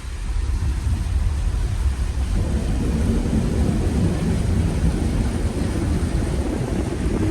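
Car driving, a steady low rumble of engine and tyres.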